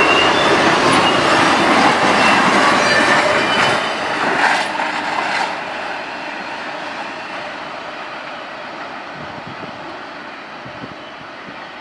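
Norfolk Southern intermodal freight train, flatcars carrying highway trailers, rolling past: a steady rumble and clatter of wheels on rail with brief faint wheel squeals, fading away over the second half as the end of the train moves off.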